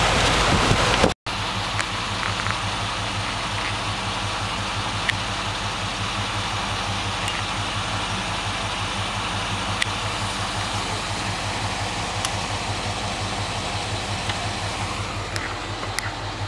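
For about the first second, river rapids rush loudly, then cut off suddenly. After the cut, a vehicle engine idles steadily, a low, evenly pulsing hum, with a few faint ticks over it.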